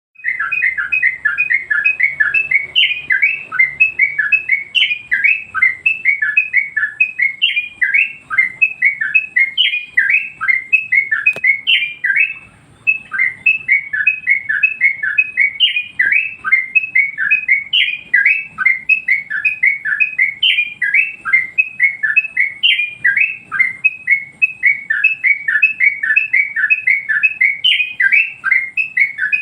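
Yellow-vented bulbul (trucukan) singing continuously in quick repeated notes, about three a second, with a brief pause about twelve seconds in.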